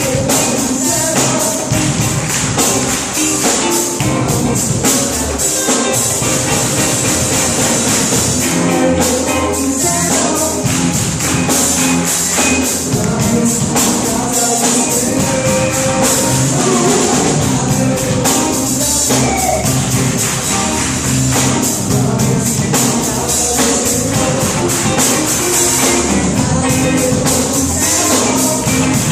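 Live worship band playing, with a tambourine shaken and struck steadily on the beat over bass, drums and guitar, and some singing.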